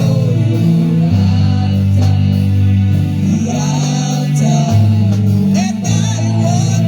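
Live gospel music: a band with bass guitar playing held notes under singing voices.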